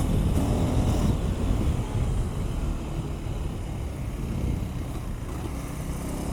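KTM 390 Adventure's single-cylinder engine pulling at around 4,000 rpm while riding through the gears. Wind rush on the helmet microphone runs under the engine note.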